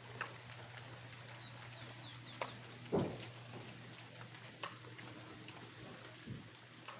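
A bird giving a quick series of short, falling chirps over a steady low hum, with a few scattered knocks; the loudest knock comes about three seconds in.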